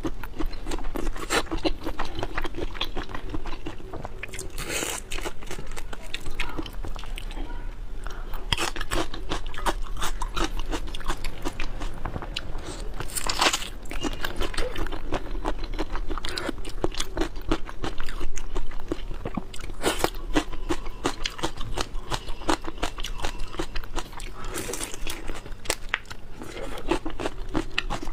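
Close-miked mouth sounds of a person chewing and biting into raw seafood: a dense run of irregular crunches and small clicks, over a steady low hum.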